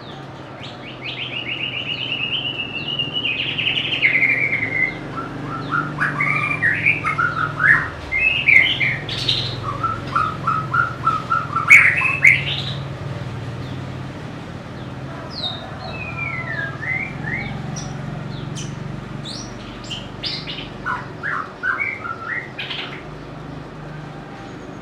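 White-rumped shama singing a varied run of clear whistled phrases: a fast trill sliding down early on, then rising and falling notes, with the phrases growing quieter and more spaced out after about halfway. A steady low hum lies underneath.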